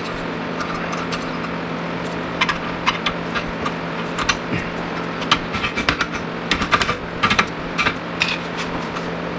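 Irregular sharp clicks and clinks of hand tools and metal parts over a steady low hum.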